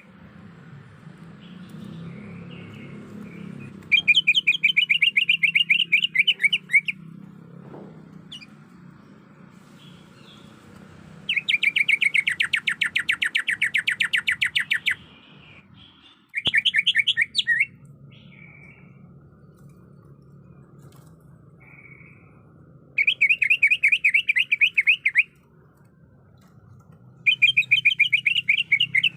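Female green leafbird (cucak ijo) calling: bursts of fast, evenly repeated high chattering notes, each lasting a couple of seconds, five times with short pauses between. It is a female's call to draw a male into answering.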